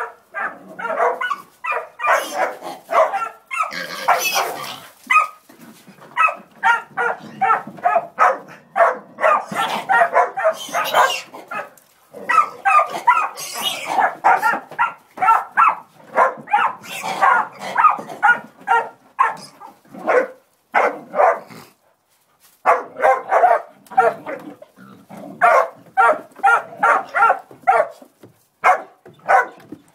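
Hog-dog pups barking rapidly and repeatedly while baying a hog, in dense strings with a short pause about two-thirds of the way through.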